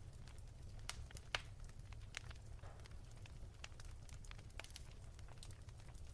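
Wood fire crackling softly: irregular sharp snaps and pops, one louder snap about a second and a half in, over a steady low rumble.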